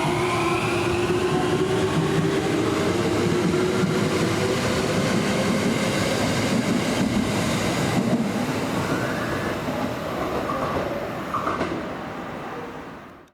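Kintetsu electric train pulling out of the station, its traction motors whining upward in pitch as it gathers speed over the rumble of wheels on rail. The sound fades away over the last few seconds.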